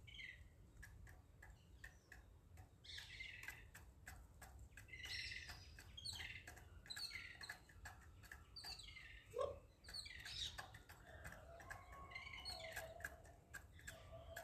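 Birds chirping faintly in short, repeated falling notes every second or two, with many light ticks scattered among them.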